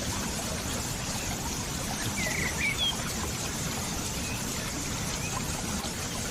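Water flowing steadily, as in a stream or small cascade. A few short chirps, like a small bird's, come about two and a half seconds in.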